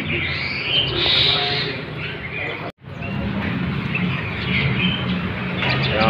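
Caged songbirds chirping and twittering, with whistled notes that bend up and down, over a low steady hum. The sound drops out for an instant nearly three seconds in.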